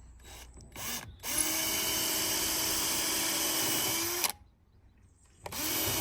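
Electric drill running as it drills into a wooden pole: a couple of short trigger pulses, then a steady run that rises slightly in pitch and stops about four seconds in, starting again near the end.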